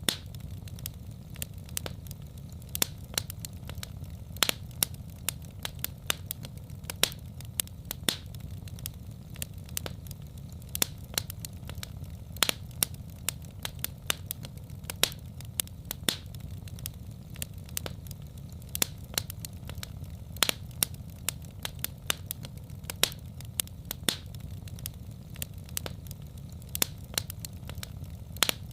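Wood fire crackling: irregular sharp pops and snaps, several a second and a few much louder than the rest, over a low steady rumble.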